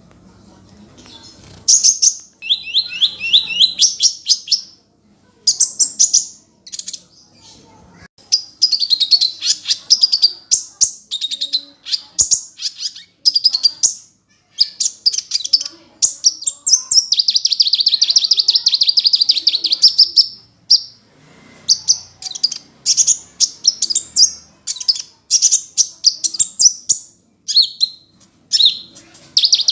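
A sunbird singing in fast, high-pitched chattering trills: long runs of rapidly repeated notes with short pauses between them, starting about two seconds in.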